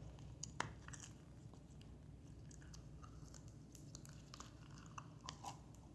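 Slime with star and balloon confetti mixed in being kneaded by hand, giving faint, scattered sticky clicks and small pops.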